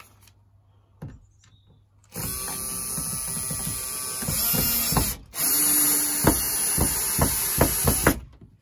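Power drill running in two bursts of about three seconds each, with a short break between them and a few sharp knocks during the second burst.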